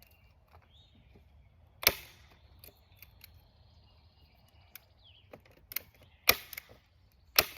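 Staple gun snapping as it drives staples through plastic sheeting into a wooden door frame: three sharp shots about 1.9, 6.3 and 7.4 seconds in, with a few lighter taps between.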